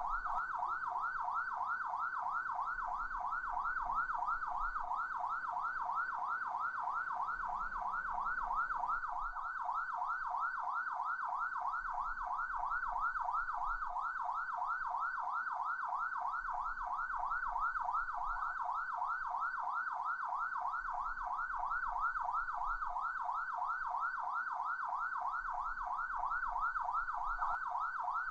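Police car siren in yelp mode: a fast, repeating up-and-down wail, about four cycles a second, running steadily at an even level.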